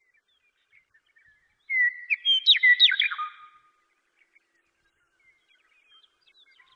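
Birdsong: a burst of quick, loud chirps and sweeping whistles lasting about two seconds, with faint scattered chirps around it.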